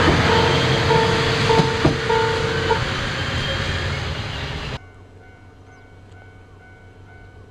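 Noto Railway NT100-series diesel railcar running past close by, a steady rumble of engine and wheels on rail, with a tone repeating about four times and two sharp clicks in the first three seconds. The sound cuts off suddenly at about 4.8 s to a much quieter, distant scene with faint tones.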